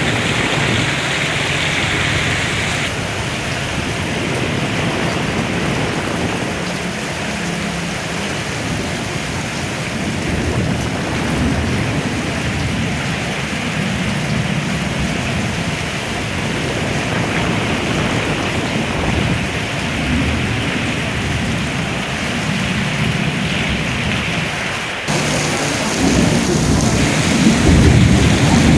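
Heavy rain pouring in a storm, a continuous hiss with a low rumble underneath that swells and fades. The sound changes abruptly about three seconds in and again near the end.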